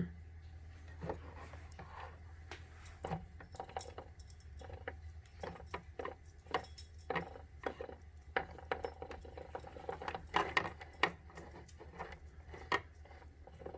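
Concept2 rowing machine's drive mechanism, run with the handle pulled while the unit is upside down, making irregular metallic clicks and rattles over a steady low hum. This is the clicking noise the owner is trying to pinpoint, which he finds less loud with the unit upside down.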